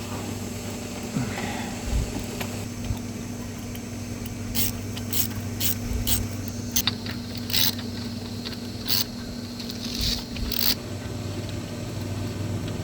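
Hand ratchet tightening hose clamps on a water-line hose fitting: a string of short clicking, scraping strokes, about ten of them, starting a few seconds in. A steady low hum runs underneath.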